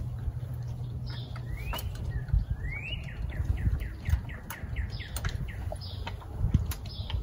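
A songbird singing: a couple of rising whistles, then a quick run of short falling chirps. A few low knocks and clicks come from hands working on the outboard motor.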